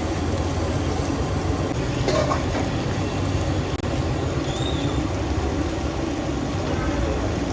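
Steady street-stall noise: a low rumble of passing traffic with hot oil sizzling as snacks deep-fry.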